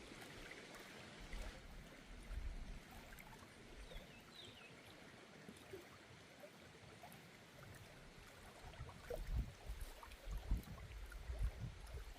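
Faint flowing river water, with irregular low bumps on the microphone in the last few seconds.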